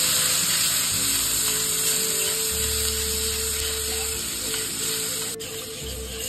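Green chillies and curd sizzling in hot mustard oil in a steel kadai as a spatula stirs them. The hiss slowly fades as the curd cools the oil.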